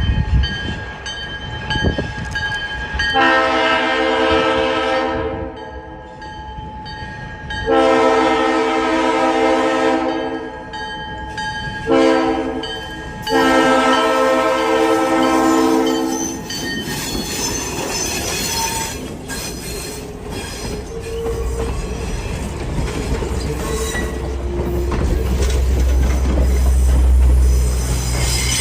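Train horn sounding three long blasts, the first about three seconds in, with a short toot between the second and third. After the horn, the train runs on with wheel-on-rail noise and a low rumble that grows louder near the end.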